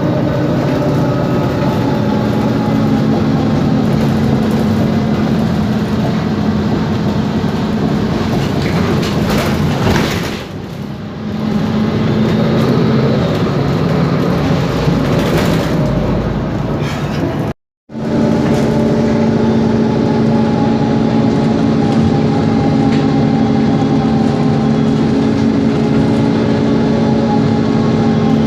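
Mercedes-Benz Conecto G articulated bus running, its OM457LA six-cylinder diesel giving a steady drone, with the level dipping briefly about a third of the way in. The sound cuts out for a moment about two-thirds of the way through and resumes unchanged.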